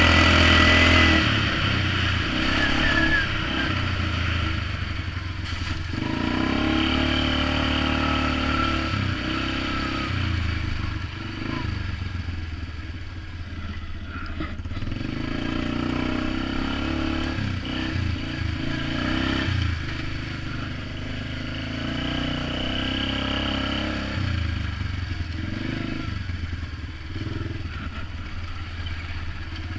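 Polaris Magnum 425 ATV's single-cylinder four-stroke engine running through a DG Performance RCM-II aftermarket muffler during a ride, the exhaust note rising and falling with the throttle. It is loudest for about the first second, then runs a little lower and uneven.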